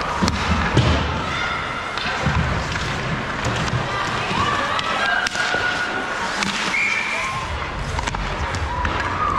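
Indoor court game: a ball thumping on the hard floor, sneakers squeaking as players cut and stop, and a murmur of voices from players and onlookers echoing around the gym.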